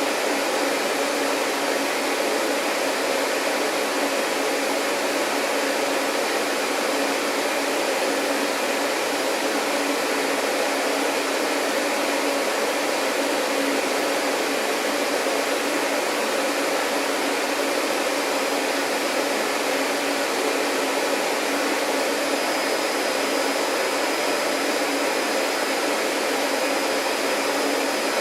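Vacuum cleaner running steadily: a constant motor whir and rush of air that never changes in level. A faint thin high tone joins in about two-thirds of the way through.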